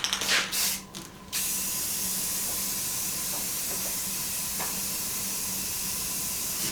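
Paint being sprayed onto metal parts: after a few short knocks, a steady hiss starts about a second in and holds even.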